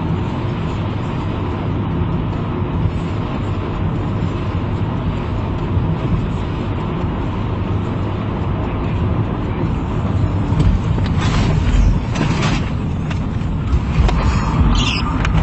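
Car engine and tyre noise heard from inside the cabin, a steady low drone. Several short knocks or thuds come in the last few seconds.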